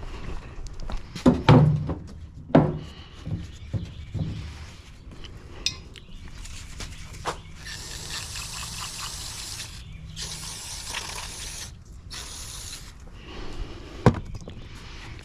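Clunks and knocks of metal parts being handled, followed by three hissing spray bursts, the first about two seconds long and the last short, with a sharp knock near the end.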